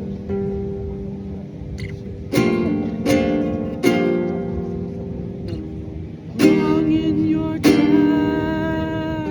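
Acoustic guitar music: separate chords struck about half a dozen times and left to ring out, with a wavering sustained note over the last few seconds.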